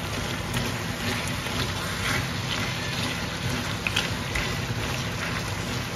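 Chicken, potato and long bean masala sizzling steadily in a metal wok while a metal spoon stirs it, with a few soft scrapes of the spoon against the pan.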